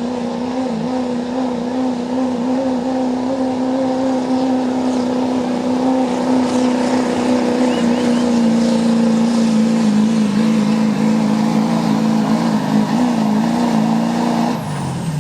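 Pulling truck's engine held at high revs at a near-steady pitch as it drags the weight sled down the track. Near the end the engine drops off and its pitch falls as the throttle is released.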